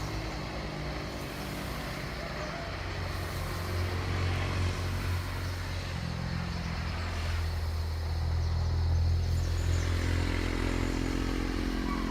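Steady low buzzing hum of a honeybee colony massed on its hive, shimmering in defence, under a hiss of background noise; it swells a little about two thirds of the way through.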